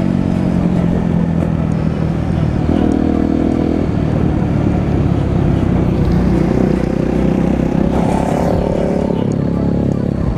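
Off-road vehicle engine running under way, its pitch stepping up and down several times as the rider changes throttle.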